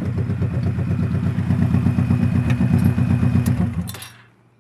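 A 2001 Honda Shadow Spirit 1100's V-twin engine idling with a lumpy, uneven beat, then switched off about four seconds in, the sound cutting off abruptly.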